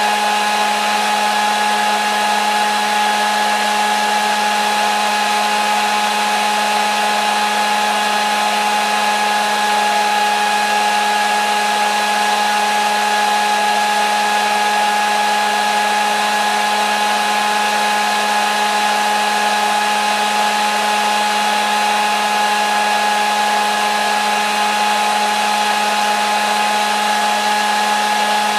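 Hair dryer running steadily: a loud, even rush of air with a constant motor whine, unchanging throughout.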